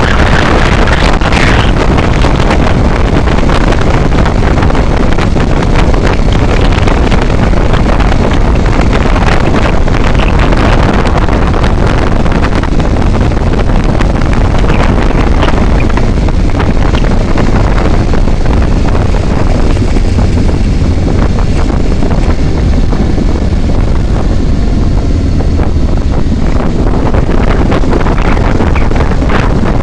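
Steady, loud rush of wind over the microphone together with the noise of a moving vehicle on the road.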